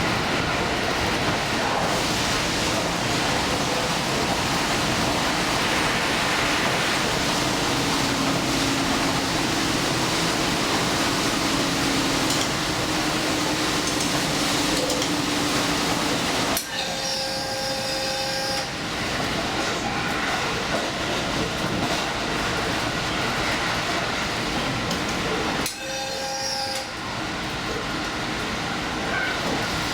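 Diesel limited express train running at speed, heard from inside the front car: a steady rumble of wheels and engine with a low hum through the middle. Twice, about 17 and 26 seconds in, the noise briefly drops and a few short steady tones are heard.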